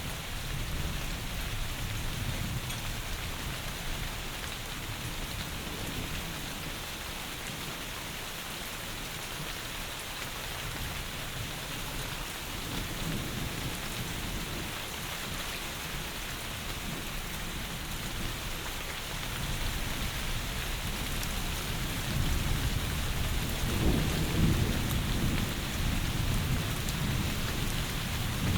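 Steady heavy rain pouring, with low rumbles of thunder underneath that swell to the loudest roll near the end.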